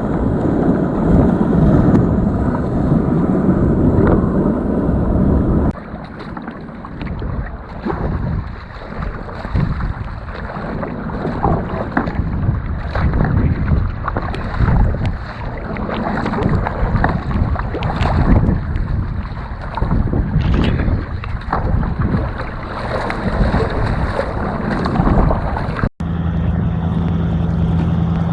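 Wind rumbling on the microphone, then water splashing and lapping around a kayak on the sea in irregular strokes. After a sudden cut near the end comes a steady low engine hum.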